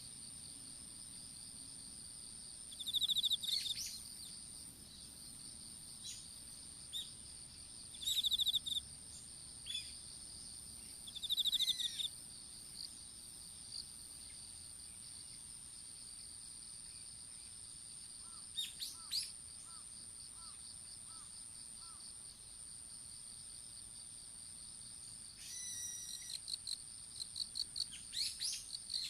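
Insects trilling in two steady high-pitched tones, with short buzzy chirps every few seconds and now and then a bird call; a quick run of repeated bird notes comes near the end.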